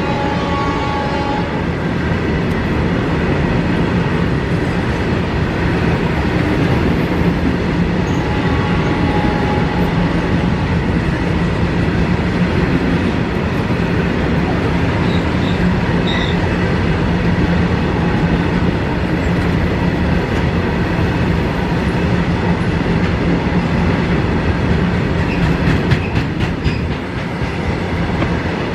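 Loaded BOXN freight train running through at speed: a steady rumble and clatter of wagon wheels on the rails. A locomotive horn cuts off about a second in.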